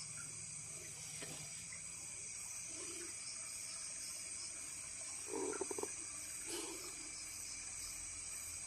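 Night insect chorus: a steady, many-layered high-pitched shrilling of insects, with a short low rapid rattling call about five and a half seconds in and a fainter one a second later.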